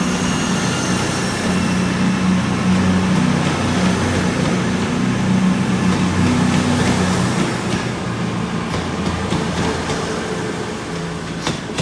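Class 221 Super Voyager diesel-electric multiple unit's underfloor diesel engines running loud and steady as the train pulls out of the station, easing off after about eight seconds as it moves away.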